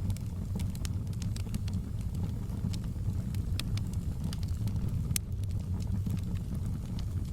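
Wood fire burning in a fireplace: a steady low roar of flames with irregular sharp crackles and pops of burning wood, the loudest pop about five seconds in.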